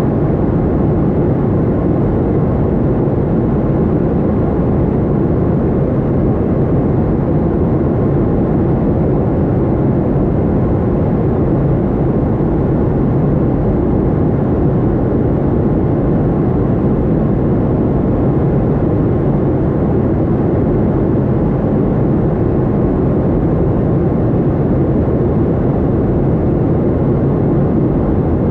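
Steady drone of a Boeing 737-800's CFM56 engines and rushing air heard inside the passenger cabin, deep and unchanging in level.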